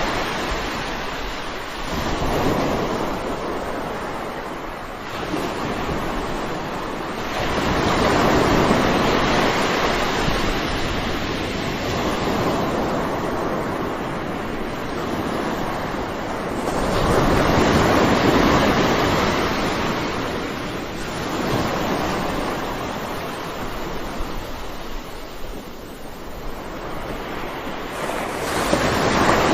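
Sea waves breaking and washing up a shore: a rushing surf that swells and fades every few seconds, with the biggest surges about a third and two thirds of the way through and again near the end.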